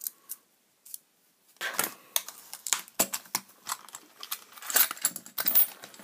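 Metal keys on a ring jingling and clicking against a steel disc padlock as they are handled. The quick, irregular clicks start about a second and a half in.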